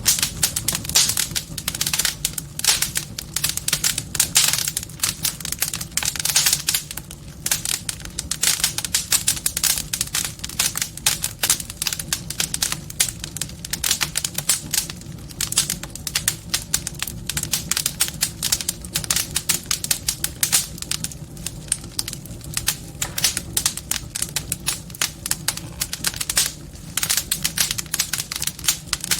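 Wood fire crackling in a fireplace: a dense, irregular stream of pops and snaps over a steady low rumble of the flames.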